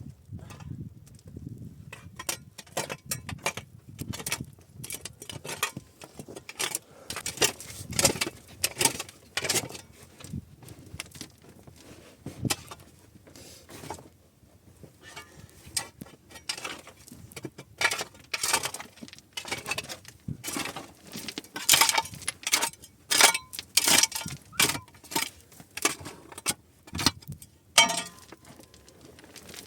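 Irregular series of sharp clinks and knocks of hard objects being handled, coming thick and fast in the second half.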